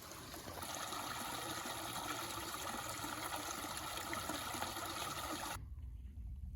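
Steady rush of running water, an even hiss that cuts off abruptly near the end.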